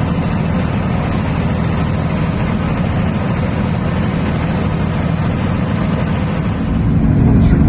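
A moving truck: a steady engine rumble with road and wind noise. About 7 seconds in it gets louder, with a deeper hum.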